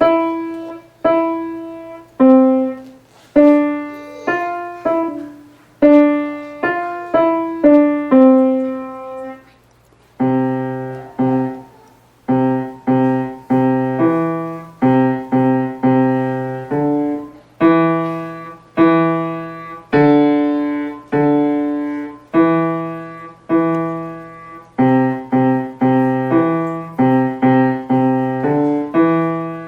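Piano played by a child: a simple melody picked out note by note, with a lower left-hand part joining about ten seconds in.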